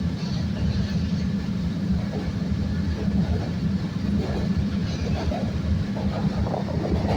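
CTA Purple Line 'L' train running along the track, heard from inside the car. A steady low rumble carries wheel-on-rail rattling, which grows busier near the end.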